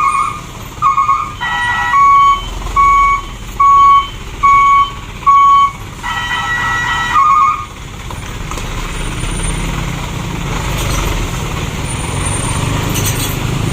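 Dump truck's reversing alarm beeping: about five evenly spaced loud beeps under a second apart, with a few short multi-tone chimes around them, over the low running of the truck's diesel engine. The beeping stops about halfway through and the engine runs on, swelling a little near the end.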